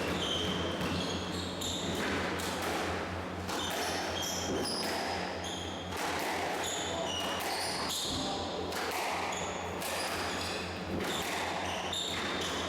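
Squash play on an indoor court: the ball struck by racquets and smacking off the walls and floor in an irregular series of sharp hits, with short high-pitched shoe squeaks on the court floor and a low steady hum underneath.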